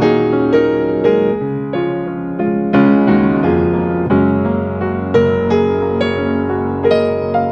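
Background piano music, gentle notes and chords struck about every half second to second.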